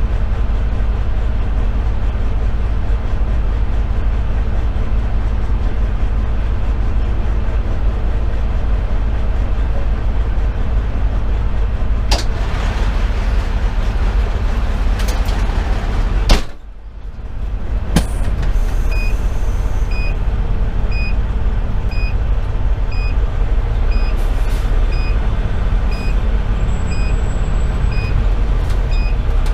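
Fire engine's Detroit Series 60 diesel idling steadily, a constant low rumble. About halfway through there is a loud thump, and the level briefly drops. Then a short high beep starts and repeats about once a second.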